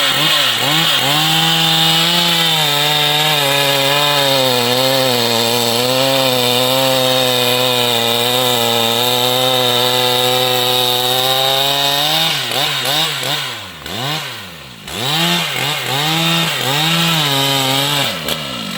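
Large two-stroke chainsaw held at full throttle under steady load for about twelve seconds. It is then revved up and down over and over, dropping briefly toward idle partway through before revving again.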